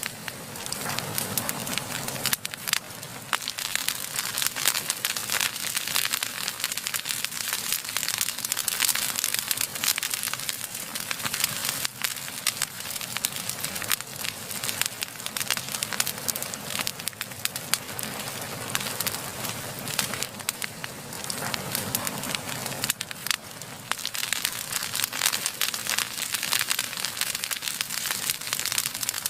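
Fireplace fire burning: a steady hiss under dense, irregular crackles and snaps.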